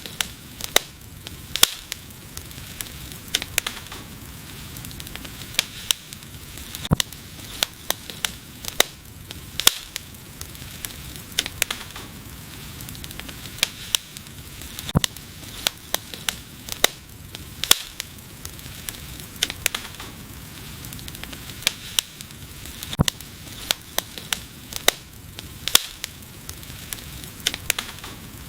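Wood fire burning: a steady low hiss with sharp, irregular crackles and pops from the burning wood.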